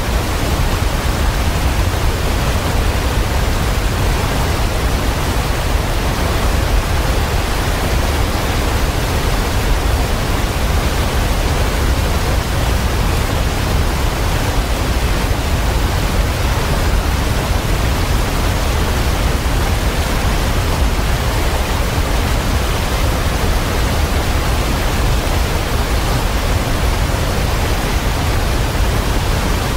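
Waterfall rushing steadily: a dense, even wash of falling water with a strong low rumble.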